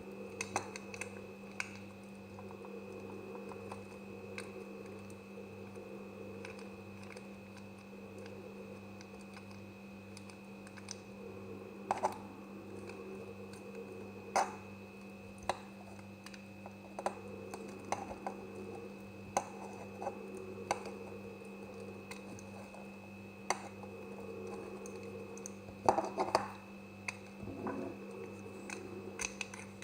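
Knife cutting semi-dry soap: irregular crisp clicks and crunches, with a few louder snaps, over a steady low hum.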